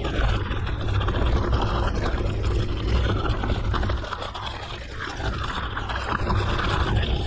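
Mountain bike riding along a rough forest road: a steady scraping rush of tyres over the surface, with wind rumbling on the microphone.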